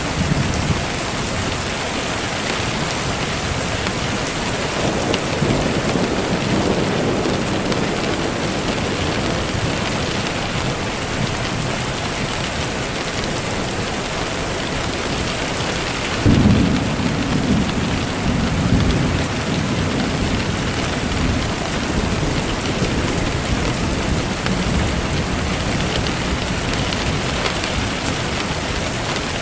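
Steady rain falling, with rolls of distant thunder; a louder thunder rumble starts suddenly about sixteen seconds in and fades over a few seconds.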